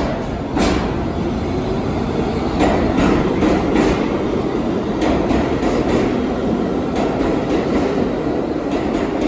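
New York City Subway R62A train running along the track: a steady rumble with sharp, irregular clicks from the wheels passing over rail joints.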